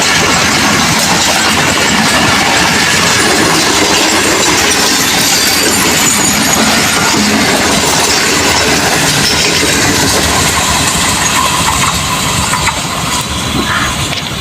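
Passenger train running on the track: a steady, loud rumble and rattle of the carriages.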